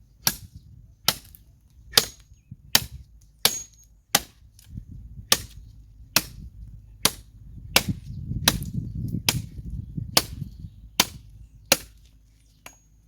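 A rather blunt machete chopping sticks of firewood: a steady run of sharp strikes, about one every three-quarters of a second, some seventeen in all.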